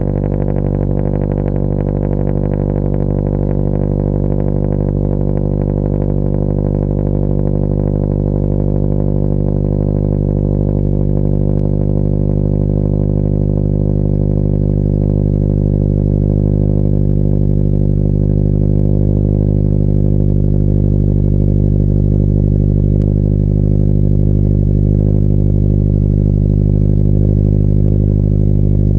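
2013 Subaru BRZ's 2.0-litre flat-four idling steadily, cold, through a Tomei unequal-length header, catless resonated front pipe and Invidia N1 exhaust, with no revs. The note holds an even pitch and grows slightly louder toward the end.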